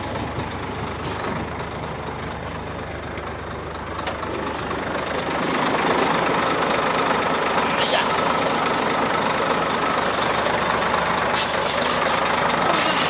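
Scania R420 truck's straight-six diesel running with a turbo comb fitted in the turbocharger intake and a straight-through exhaust. It grows louder from about five seconds in, when a steady whistle from the turbo comb comes in over the engine. Short hisses follow near the end.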